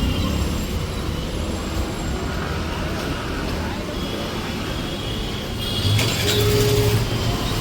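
City street traffic heard on foot: a steady rumble of passing motor vehicles, growing louder about six seconds in as a heavier vehicle goes by.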